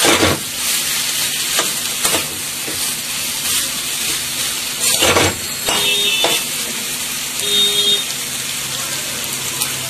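Spiced chickpeas sizzling in oil in a metal kadai while a metal spatula stirs them, scraping and knocking against the pan every second or so. The masala is being fried down with the chickpeas.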